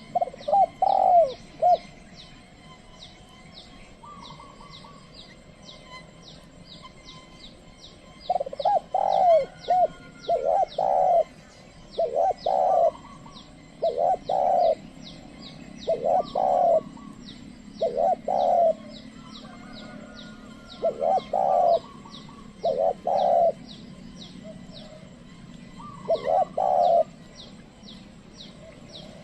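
Spotted dove cooing its repeated coo phrases: one phrase at the start, then a long quiet stretch, then phrases about every two seconds until near the end. A thin, high chirp repeats evenly about three times a second throughout.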